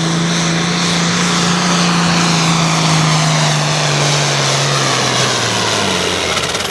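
Turbocharged diesel engine of an altered farm pulling tractor running flat out while dragging the weight sled. Its pitch holds steady, then drops over the last couple of seconds as the engine slows near the end of the pull.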